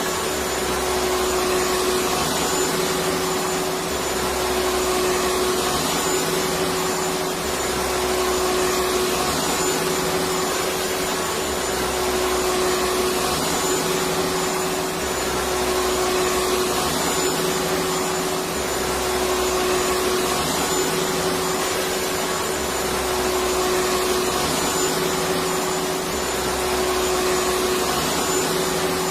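Electric vacuum cleaner running steadily: a continuous rushing noise with a steady hum, and a low rumble that comes and goes every three to four seconds.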